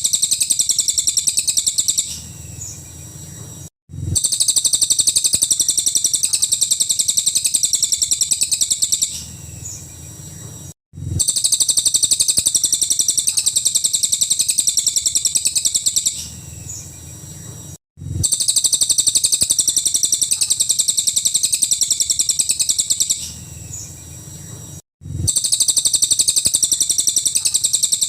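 A cililin bird singing its rapid, high-pitched burst song ('nembak'), a dense string of quick notes in bouts about five seconds long. The bouts repeat alike about every seven seconds with a brief dropout between them, as in a looped song-tutor recording.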